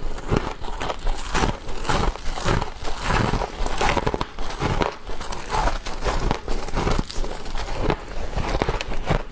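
A person biting into and chewing frost: a quick, irregular run of crisp crunches, several a second.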